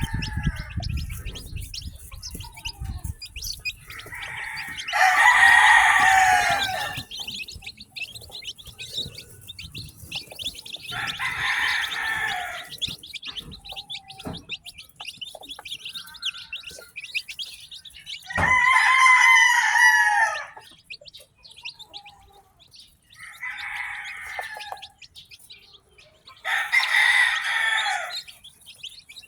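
A rooster crowing about five times, each call lasting one to two seconds. Under it, newly hatched chicks keep up a continuous high peeping.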